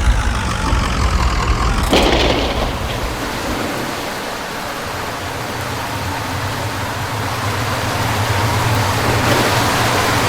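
Car engine and road noise heard while driving, with a brief sharp noise about two seconds in, and a steady hiss of rain that grows toward the end.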